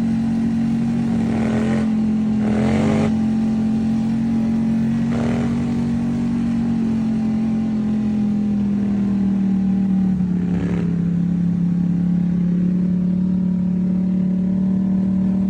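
Car engine heard from inside the cabin while driving, a steady drone that drops in pitch and holds lower from about halfway through as the car slows.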